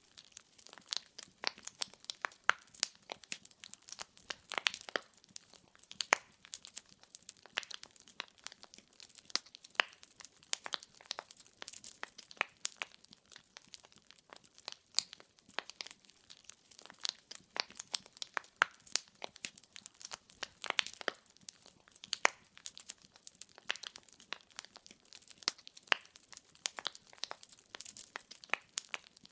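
Wood fire in a fireplace crackling: firewood logs popping and snapping in quick, irregular clicks over a soft hiss.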